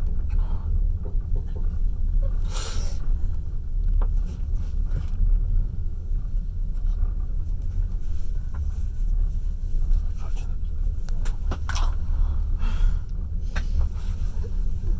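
A passenger train running along the track, heard from the carriage window: a steady low rumble of wheels on rails, with a few short sharper noises now and then, the first about three seconds in.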